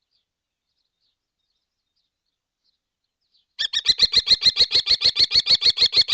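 Silence, then about three and a half seconds in a kestrel starts a rapid, evenly spaced series of sharp kee-kee calls, about eight notes a second.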